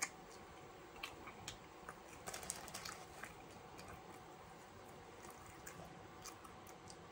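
Faint, wet chewing of fries topped with cheese and sauce, with scattered small mouth clicks and smacks, most of them bunched about two and a half seconds in.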